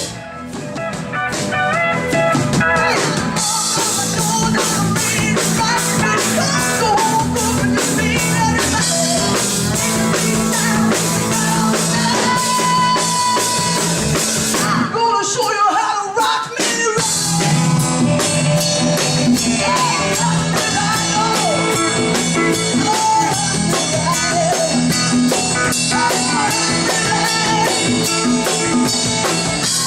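Rock band playing guitar and drum kit, with a brief drop in the music about fifteen seconds in.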